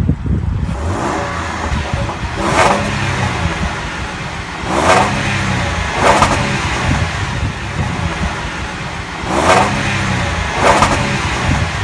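Land Rover LR4's 3-litre supercharged V6 revved in about five short blips, each rising and dropping back to idle.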